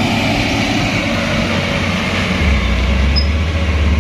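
Diesel truck engine running with a steady drone, its low rumble growing heavier about two and a half seconds in.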